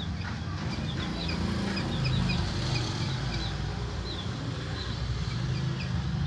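Chickens clucking, with many short high chirps scattered throughout, over a steady low rumble.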